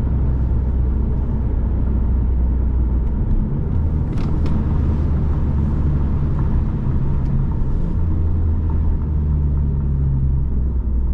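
Turbocharged Ford Mustang running at a steady cruise: a continuous low engine drone over road noise, its note shifting slightly a couple of times.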